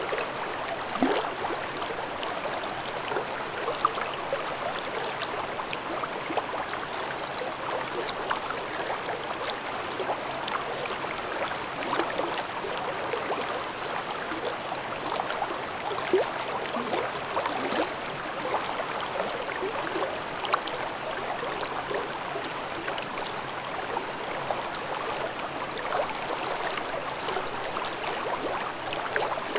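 Shallow mountain stream babbling steadily over rocks, with small irregular gurgles and splashes.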